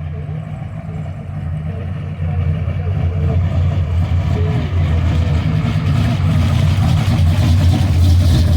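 A car's engine running at low revs as the car drives by, growing steadily louder as it comes closer.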